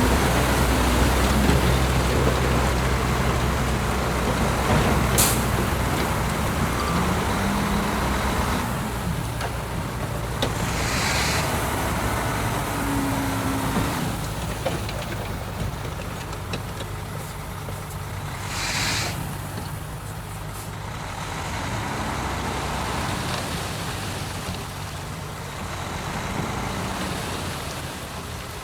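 Heavy diesel engines of a bulldozer and dump truck running at a worksite, loudest for the first eight seconds or so and then easing to a lower, quieter run. There are two short hisses of air, about eleven and nineteen seconds in.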